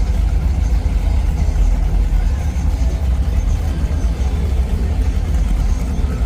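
Street traffic: the steady low rumble of vehicle engines idling and running.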